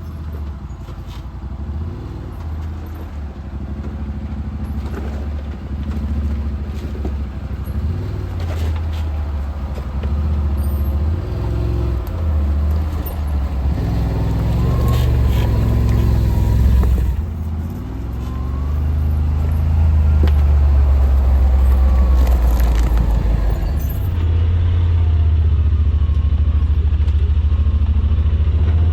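Side-by-side UTV engine running at low speed while crawling over a rough, rocky trail, a low drone that rises and falls with the throttle. A whine rises and falls a few times around the middle, with scattered knocks and rattles over the rough ground, and the engine gets louder in the second half.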